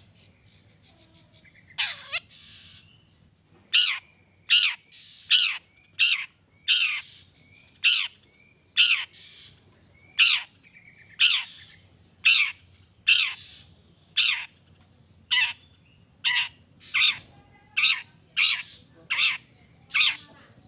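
Long-tailed shrike (cendet) giving a long series of harsh, downward-sweeping squawks, about one a second, coming a little faster in the second half: the agitated 'emotional' calls used to provoke other shrikes into answering.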